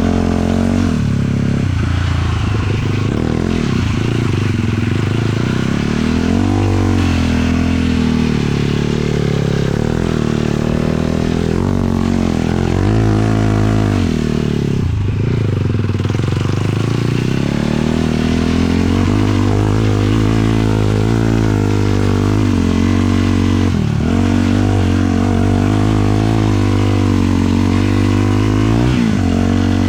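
Single-cylinder four-stroke 450cc sport quad engine running under load while riding, its revs rising and falling repeatedly as the throttle opens and closes, with brief sharp drops in pitch every few seconds.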